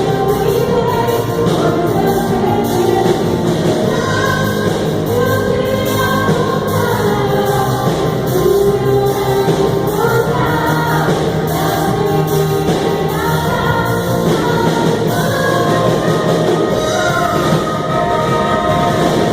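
Christian worship music with several voices singing a melody over instrumental accompaniment, continuous and at a steady level.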